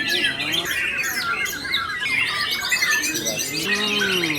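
White-rumped shama (murai batu) singing a fast, varied song of sweeps and trills, with other contest birds singing over it.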